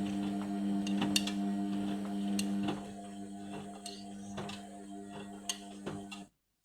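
Indesit washing machine humming steadily, with scattered light clicks and ticks. The hum quietens about halfway through and cuts off suddenly near the end.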